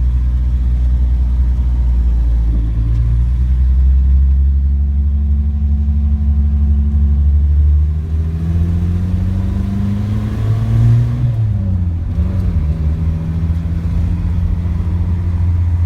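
Toyota Sunrader pickup's engine heard from inside the cab as it sets off: a steady low drone, then from about eight seconds in the pitch climbs as it accelerates, dips briefly near eleven seconds as at a shift of the manual gearbox, and settles into a steady run.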